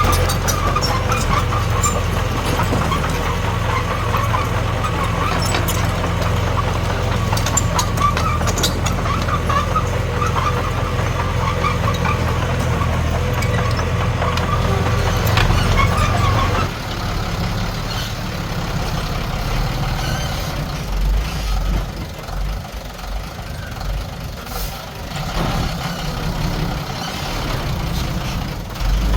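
Heavy earthmoving machinery's diesel engine running steadily. About two-thirds of the way through, the deep engine note drops away suddenly and the sound becomes quieter and uneven.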